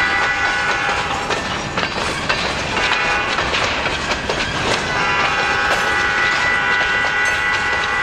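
Freight train of covered hopper cars rolling past close by, with a steady rumble and irregular clicks of wheels over the rail joints. A high steady whine fades out about two seconds in and comes back about five seconds in.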